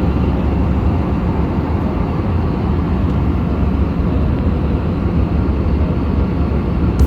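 Steady low rumble of an airliner cabin: engine and airflow noise heard from inside the passenger cabin. A sharp click comes right at the end.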